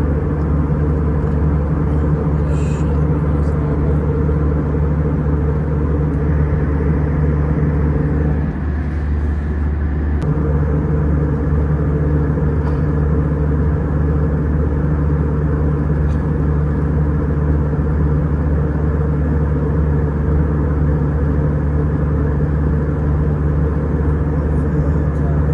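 Airliner cabin drone in flight: steady low hum and rushing noise from the engines and airflow. It dips briefly for about two seconds some eight seconds in.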